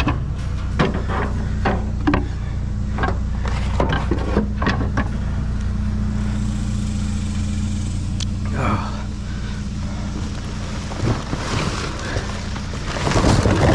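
A vehicle engine idling steadily, with a run of short knocks and clatter over it from items being handled, thickest in the first few seconds and again near the end.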